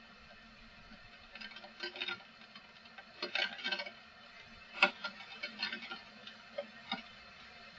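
Irregular sharp drips and taps of rainwater falling onto a hard surface, in scattered clusters with one louder tap about five seconds in, over a faint steady background.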